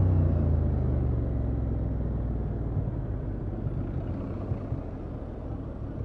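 Honda XL750 Transalp's parallel-twin engine through its stock exhaust. The engine note fades over the first two seconds or so, leaving a low rumble.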